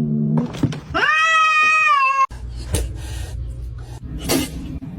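A cat's long meow, rising at the start and then held for about a second, which stops suddenly. Fainter rustles and a couple of clicks follow.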